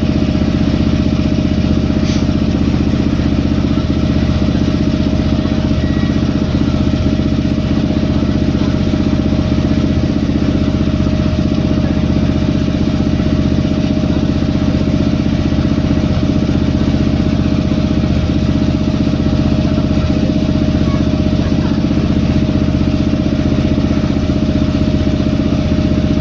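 Boat engine running steadily at an even, unchanging pitch.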